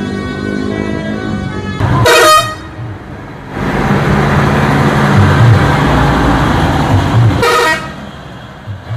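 Vehicle horn sounding in two short blasts, about two seconds in and again near the end, with a loud rushing vehicle noise and low hum between them.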